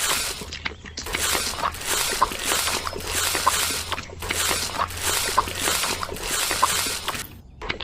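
Rhythmic scraping or rasping strokes, about one every 0.6 s, over a steady low hum.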